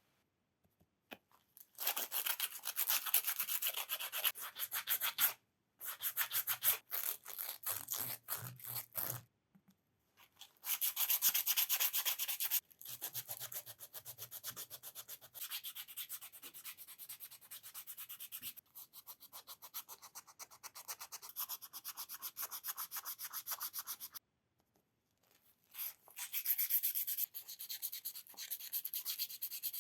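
Hand polishing of a carved wooden bird: rapid back-and-forth rubbing strokes of an abrasive or cloth over the wood surface. The rubbing comes in several bouts, with short pauses about five, nine and twenty-four seconds in.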